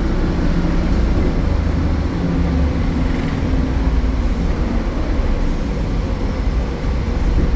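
MAN Lion's City A76 city bus's MAN Euro 4 diesel engine running with a steady low rumble.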